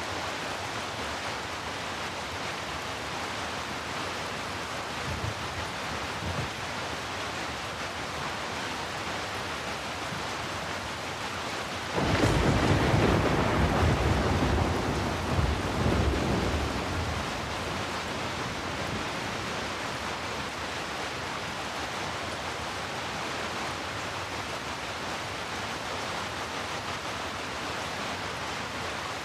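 Steady rain. Near the middle, a sudden crack of thunder rolls into a low rumble for several seconds and fades back under the rain.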